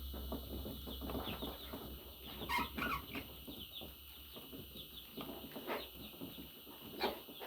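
Budgerigars chattering: a steady stream of short high chirps and clicks, with a burst of louder calls about two and a half seconds in and a sharp click near the end.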